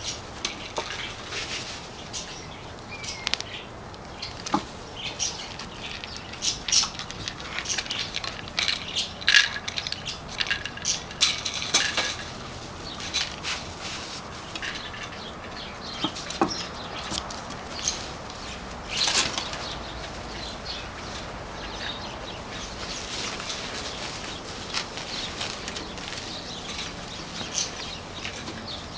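Shade cloth rustling and rattling irregularly, with scrabbling claws, as 8-week-old Portuguese Podengo Medio puppies climb it.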